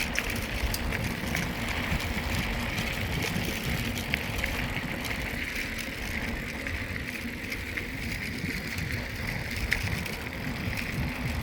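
Riding noise of a mountain bike under way: steady tyre rolling and drivetrain noise with scattered small rattles and clicks, and wind rumbling on the handheld phone's microphone.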